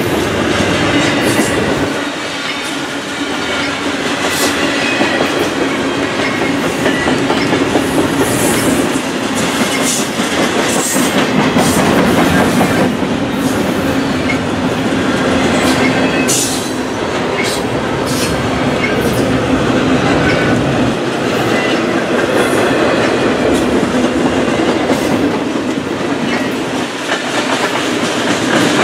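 A train passing close by: a continuous rumble of steel wheels on the rails with scattered sharp clicks.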